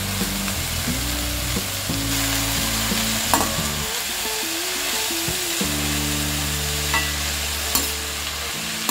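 Chopped radish leaves frying and sizzling in oil in a stainless steel kadai as they are stirred and tossed with a metal slotted spoon, with a few light clicks of the spoon against the pan.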